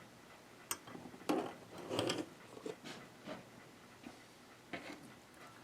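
Small parts of a Janome ME4014 sewing machine being handled while it is taken apart around the bobbin holder: a handful of separate light clicks and knocks.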